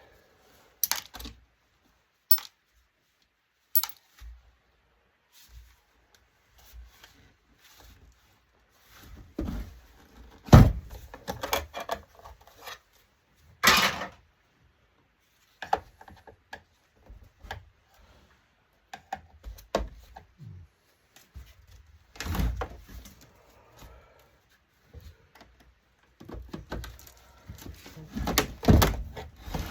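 Intermittent clicks, knocks and clatter of tools and plastic and metal parts as an LCD touchscreen monitor is being taken apart by hand, with a sharp knock about ten seconds in and a busier run of knocks near the end.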